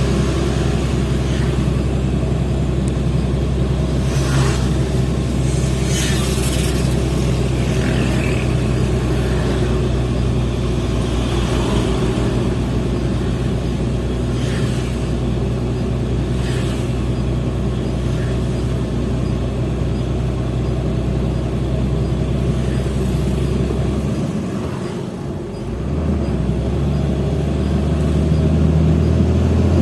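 Hino FL 260 JT truck's diesel engine running steadily, pulling a loaded truck. Near the end the engine note dips briefly, then comes back stronger and a little higher.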